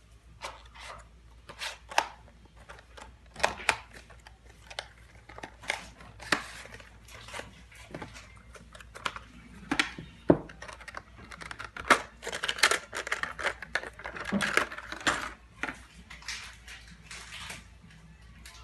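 Plastic packaging being handled: irregular clicks, taps and crinkling, with a denser run of crinkling about twelve to fifteen seconds in.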